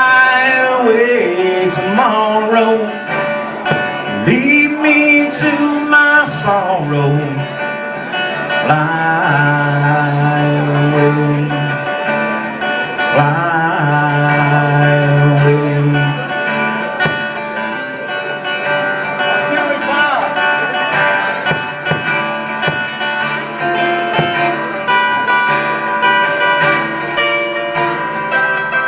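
Solo acoustic guitar and a man's singing voice: the closing passage of the song, with sung phrases in the first several seconds and the guitar playing on after them.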